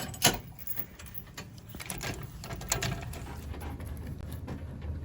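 Clicks and knocks of a boat trailer being hitched to a pickup, with one sharp knock just after the start, over a low steady rumble.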